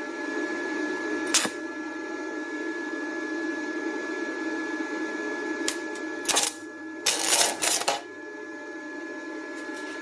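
Stick-welding arc from a 6013 rod at 32 amps, crackling and sizzling steadily as a bead is run. A loud pop comes about a second and a half in, and a louder burst of crackling comes near the end.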